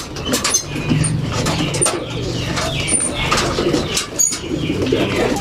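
Racing pigeons cooing, with many scattered clicks and knocks.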